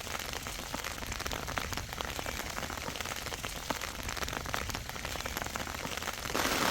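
Rain falling, heard as many scattered drop ticks over a steady hiss with a low rumble underneath; near the end it turns into a denser, louder wash of rain.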